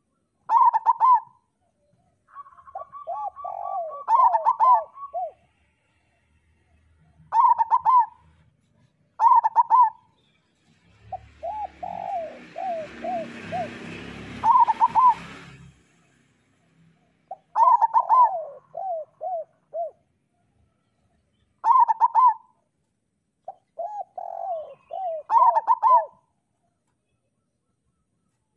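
Zebra doves (perkutut) cooing: phrases of a few quick notes and then a run of falling, rolling coos, repeated every few seconds. A brief burst of hiss-like noise sounds in the middle.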